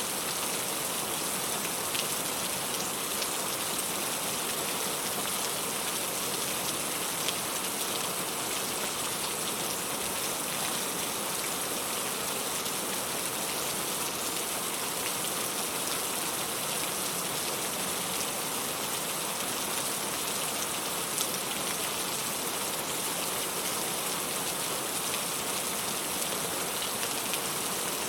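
Steady rain falling: an even, unbroken hiss with a few sharper drop ticks here and there.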